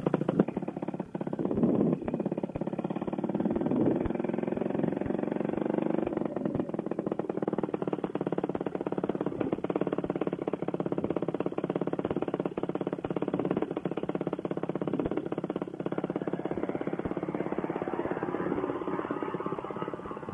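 Paramotor engine running steadily on the ground, a fast even firing pulse, before launch.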